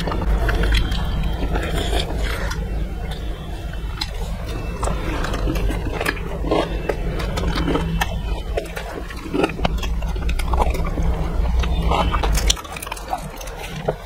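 Close-miked chewing and eating sounds from people eating, with many small wet clicks and crunches. A low rumble runs under it and stops abruptly near the end.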